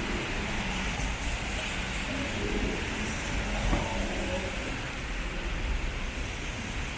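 Steady road traffic: cars passing in a continuous wash of engine and tyre noise.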